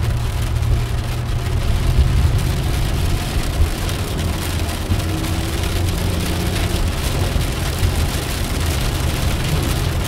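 Steady engine and road noise of a car being driven, heard from inside, with rain hitting the car.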